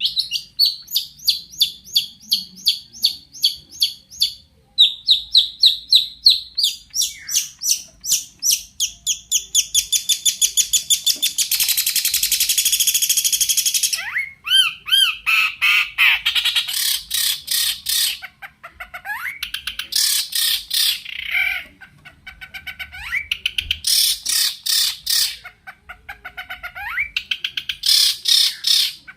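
Long-tailed shrike (cendet) singing a fast, varied song full of mimicked phrases: runs of rapid repeated high chips, a trill that speeds up into a harsh, rasping chatter about halfway through, then a mix of whistled notes that glide up and down.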